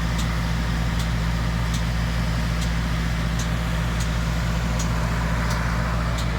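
Spray-injection pothole patching machine running steadily, its engine holding a constant low note, with a faint light click repeating about every three-quarters of a second.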